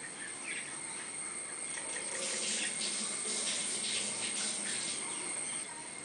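Birds at a papaya tree giving harsh, hissy chattering calls from about two to five seconds in, over a steady high-pitched insect drone.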